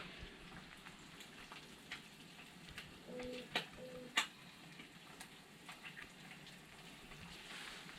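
Food sizzling in a small camp frying pan, a faint steady sizzle with scattered crackling pops.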